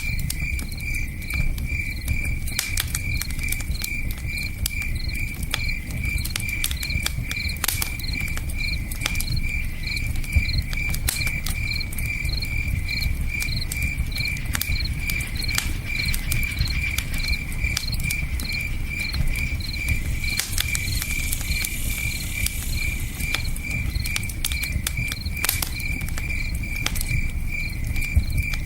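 Campfire crackling, with scattered sharp pops, over a steady low rush of river water, while a cricket chirps at an even pace of about two or three chirps a second.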